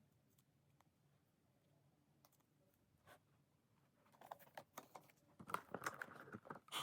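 Near silence, then from about four seconds in a run of small clicks and crinkly rustles of sticker sheets being handled and peeled.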